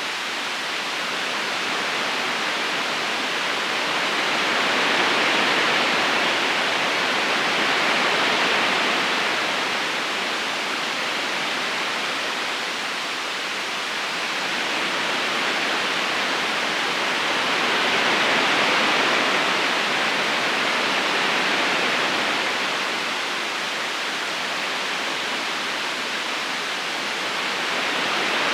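River current rushing and splashing over stones in a steady wash of water noise that swells and eases slowly every several seconds.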